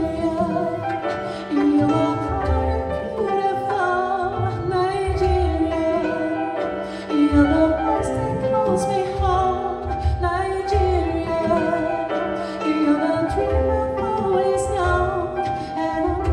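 A woman singing a soul ballad live, with sustained, gliding notes over instrumental accompaniment and a pulsing low bass.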